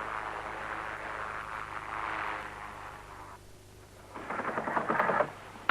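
Pilatus Porter aircraft engine and propeller noise, a rushing sound that dies down about three seconds in and swells again briefly near the end.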